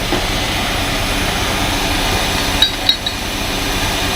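Heavy truck diesel engine idling steadily, with two sharp metal clinks close together a little under three seconds in.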